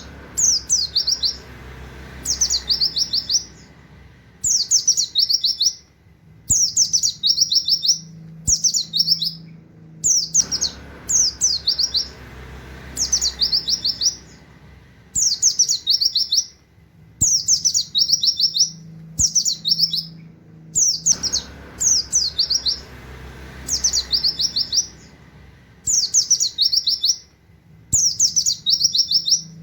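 White-eye (pleci) singing short, rapid bursts of high 'wit-wit' notes in a canary-like style, a burst every second or two.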